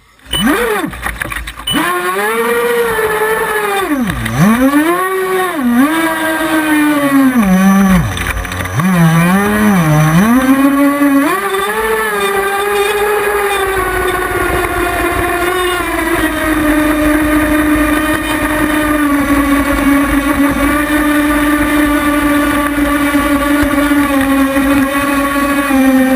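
Small boat engine starting up and running with the throttle worked up and down, the pitch swooping repeatedly. From about halfway through it settles into a steady, high-pitched run.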